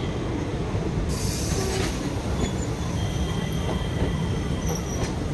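Indian Railways express passenger coaches rolling past close by: a steady rumble of wheels on the rails, with faint thin wheel squeals in the second half. A short burst of hiss comes about a second in.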